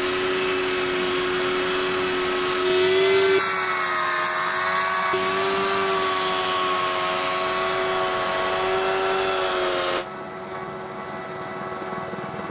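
Aircraft engine running steadily at high power, with a strong hum whose pitch wavers slightly up and down around the middle. About ten seconds in, the sound drops suddenly to a quieter, duller version of the same drone.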